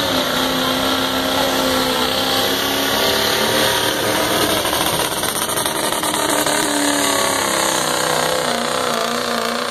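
Pulling truck's engine running loud at a steady, raised idle, its pitch wavering a little up and down.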